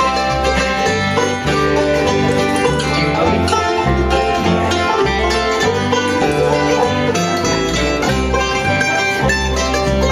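A bluegrass band playing an instrumental intro, with banjo and guitar picking over a steady bass line.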